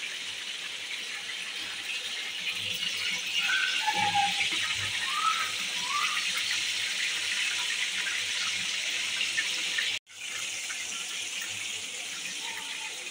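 Chapli kababs sizzling steadily as they shallow-fry in hot oil in a pan. The sound cuts out for an instant about ten seconds in.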